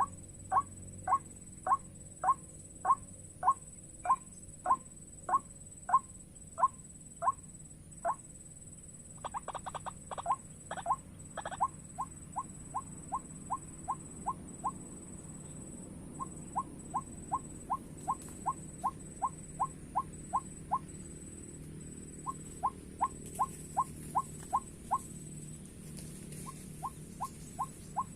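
White-breasted waterhen calling: a long series of short, repeated notes. They come at about two a second at first, then in faster runs broken by short pauses. A few seconds of rustling clicks come about nine to twelve seconds in.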